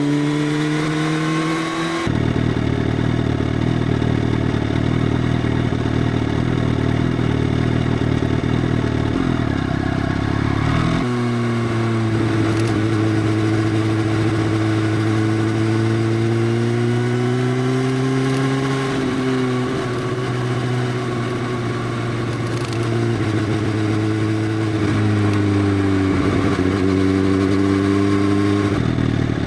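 Motorcycle with an Arrow full exhaust system, dB killer removed, running loudly. The sound changes abruptly about two seconds in and again about eleven seconds in. After that its pitch rises and falls as the revs change.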